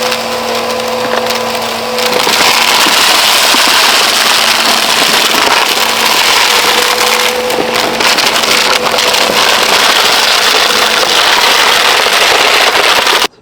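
Bissell Powerforce Helix upright vacuum cleaner running with a steady motor hum, its suction rattling with many small clicks of rocks and dirt being picked up. The sound cuts off suddenly near the end.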